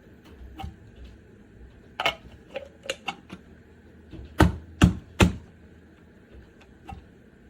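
Hard objects being handled: a run of small clicks and knocks, then three loud knocks in quick succession about two thirds of the way through.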